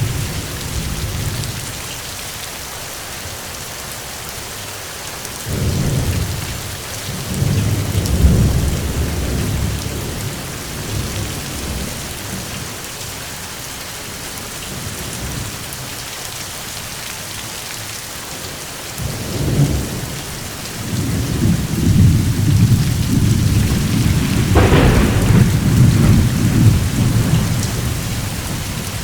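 Steady rain with rolling thunder. One deep rumble comes about a fifth of the way in, and a longer, louder roll fills the last third, with a sharper crack near its middle.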